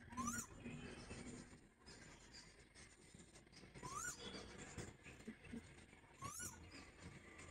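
A bird gives three short rising calls: one near the start, one about four seconds in, and one near the end.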